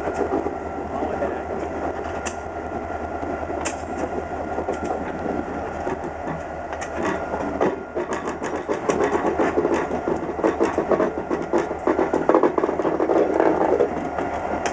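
Diesel locomotive running slowly while switching railroad cars: a steady low engine hum under a run of clicks and clanks from the wheels on the track, busiest in the second half.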